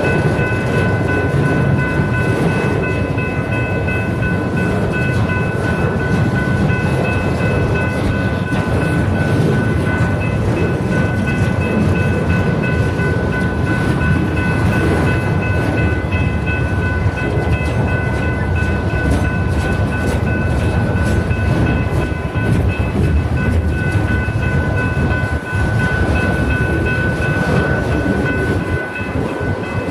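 BNSF freight train rolling past, its cars giving a steady loud rumble with rapid clicking from the wheels over the rail joints. Several steady high tones ring on over it throughout.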